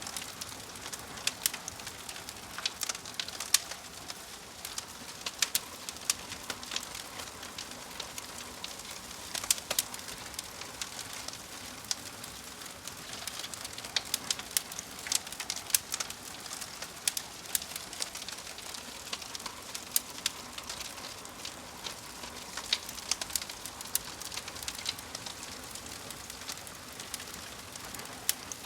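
Wood fire crackling: frequent sharp pops and snaps, irregularly spaced, over a steady soft hiss.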